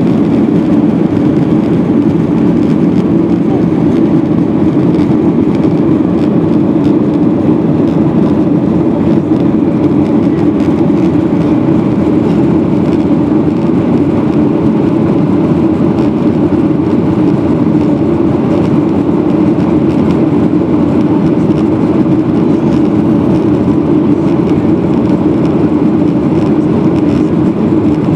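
Boeing 737-700's CFM56-7B jet engines at takeoff power, a loud, steady drone with a strong low hum and no change in pitch.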